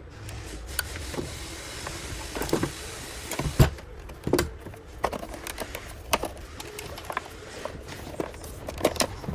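Small electric motor whirring for about three seconds, followed by a string of sharp clicks and knocks.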